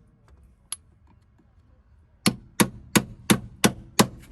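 Hammer blows in a quick, even run of about three a second: a single light tap about a second in, then six sharp strikes starting a little past halfway, knocking a vehicle part loose after its lines and nuts have been undone.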